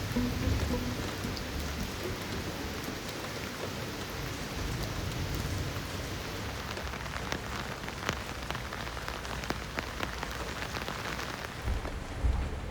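Heavy rain falling steadily, with scattered sharper drops ticking on a hard surface.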